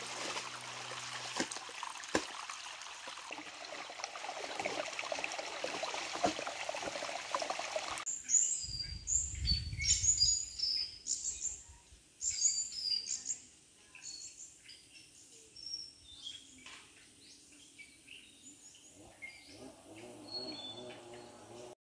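A steady rushing hiss for the first several seconds. It then cuts abruptly to small birds chirping and calling on and off, with a brief low rumble just after the change.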